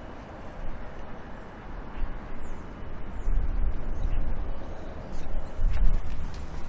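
Outdoor seaside walking ambience: a steady noisy wash with a gusting low rumble of wind on the microphone that swells a few times.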